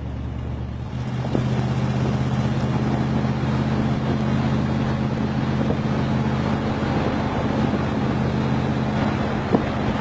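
Big-block Chevy 454 V8 in a pickup, heard from inside the cab, running steadily while driving. It gets louder about a second in and then holds steady, with one short click near the end.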